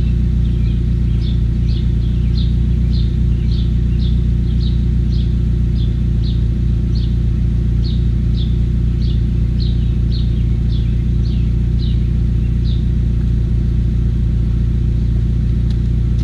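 Chevy Cobalt's 2.2-litre four-cylinder engine idling steadily through a ZZP long-tube header and catless 3-inch exhaust with no muffler, a deep, aggressive idle. A short high chirp repeats about twice a second over it, stopping a few seconds before the end.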